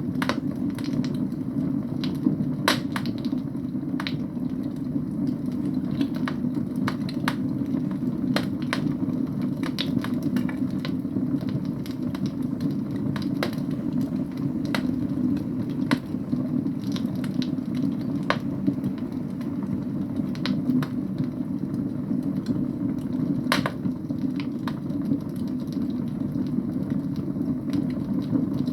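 Wood fire burning in a fireplace: a steady low rush of flame under irregular sharp crackles and pops from the burning logs.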